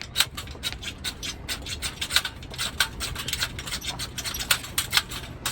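Rapid irregular crackles and scratches from the kindling of a small campfire that had gone out and is being relit.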